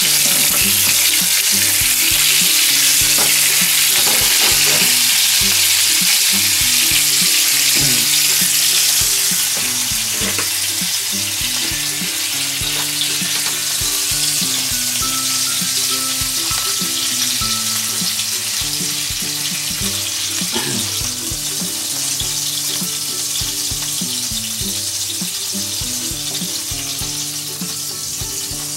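Oil sizzling under Spanish mackerel fillets in a frying pan as the flesh side is seared briefly after the skin has been crisped. A steady hiss that drops in level about nine seconds in, with light background music underneath.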